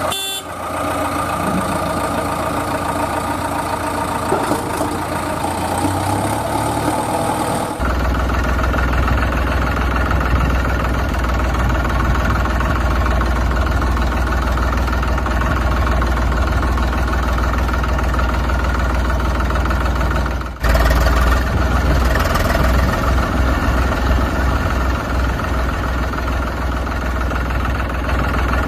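A vehicle engine running steadily at idle, its tone changing abruptly about eight seconds in and again about twenty seconds in.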